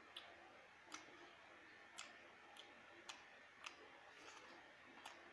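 Faint mouth clicks and lip smacks of chewing a mouthful of rice, about seven short clicks at irregular intervals.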